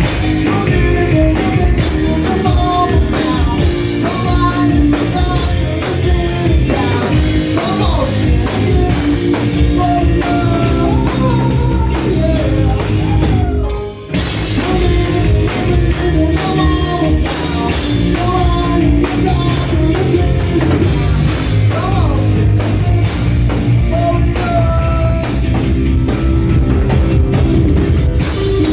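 Live rock band playing loudly: drum kit, guitar and a singing voice, with a brief break about halfway through before the band comes back in.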